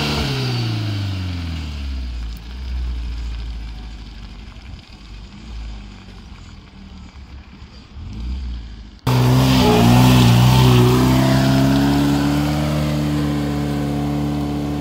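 UAZ off-roader's engine climbing a mud hill. At first its revs fall away and it drops to a quieter low rumble. About nine seconds in the sound cuts to the engine held loud at high revs while the wheels spin and fling mud.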